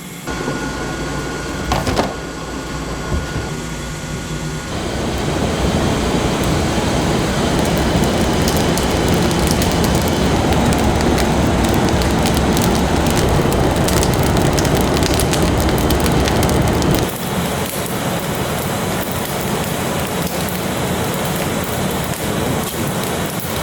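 Wood fire burning with a steady hiss and dense crackling. It grows louder about five seconds in and eases off again about five seconds before the end.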